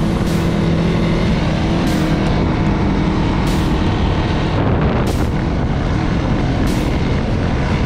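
Off-road vehicle engine running at a fairly steady cruise while riding, with wind rushing over the microphone in gusts.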